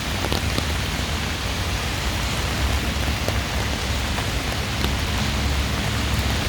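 Steady rain falling, an even hiss with scattered sharp drop ticks, over a low rumble of heavy traffic on the wet road.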